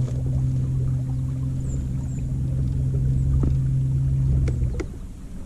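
Boat motor running with a steady hum and low rumble as the boat moves closer to the shelf, then shutting off near the end, followed by a few light clicks.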